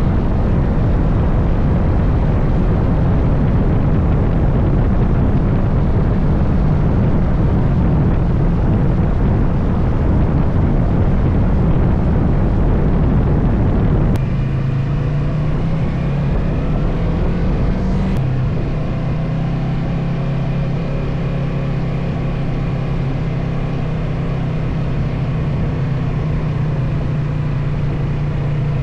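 Motorcycle on the move, wind and road noise with its engine running. About halfway through the sound drops abruptly to a quieter, steady low engine hum.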